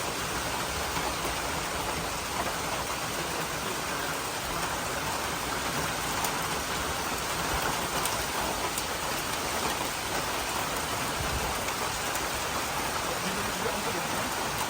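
Steady heavy rain falling and pattering on surfaces, with scattered drip ticks.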